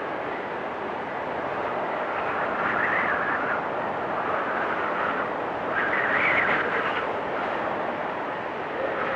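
Storm wind blowing steadily, with a whistling howl that swells up twice, about three and about six seconds in.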